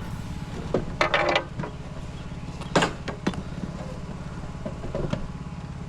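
An engine idling steadily underneath, with several short sharp clinks and knocks from handling the climbing and rigging gear.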